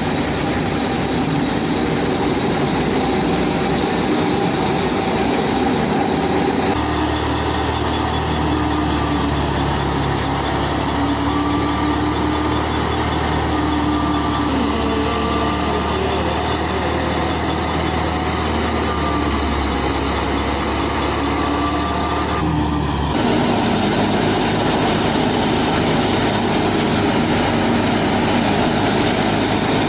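Small electric motor of a DIY toy tractor running steadily with a wavering whine as it strains under load; the sound changes abruptly twice, about seven seconds in and again past the twenty-second mark.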